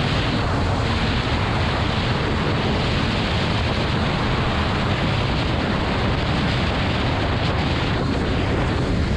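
Wind buffeting the microphone on a motorcycle riding at steady speed, a loud, even rush with the motorcycle's engine and road noise under it.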